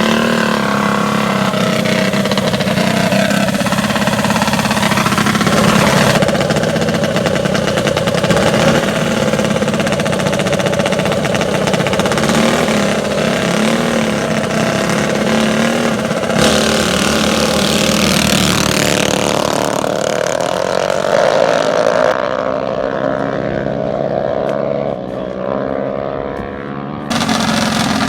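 Small mini bike engines running and revving, the sound changing abruptly several times. Toward the end one engine's pitch climbs steadily as it speeds up.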